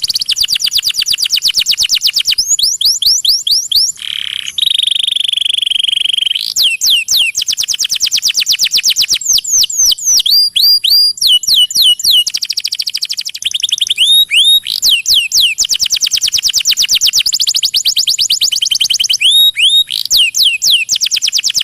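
Canary singing loudly and without pause: long rapid trills of repeated notes, broken by several phrases of quick sweeping whistled notes.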